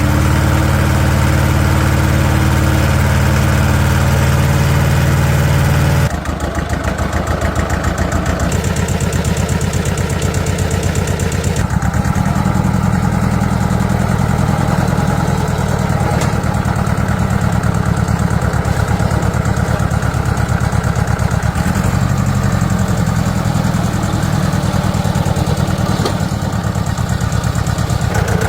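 Vehicle engine running steadily. About six seconds in, the sound changes to a rapid, even pulsing idle, which carries on with small shifts.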